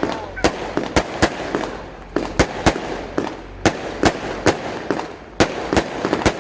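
A Sovereign 'Midnight Snow Storm' 150-shot firework cake firing: a run of sharp bangs, about two or three a second at uneven spacing, with a steady hiss between them.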